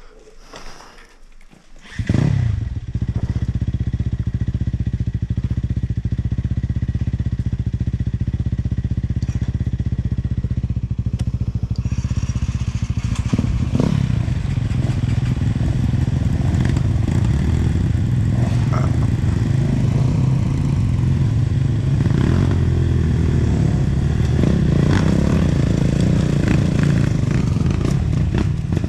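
Off-road motorcycle engine starting suddenly about two seconds in, then running steadily at idle. From about twelve seconds in it runs harder and more unevenly, with knocks and rattles mixed in.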